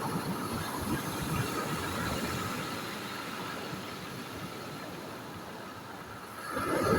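Sea waves washing on the shore, a steady rushing that swells into a louder incoming wave near the end.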